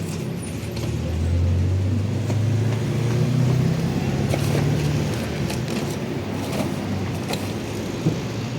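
A car engine's low drone swells up about a second in, rising slightly in pitch for a few seconds, then fades back into steady background noise; a sharp click comes near the end.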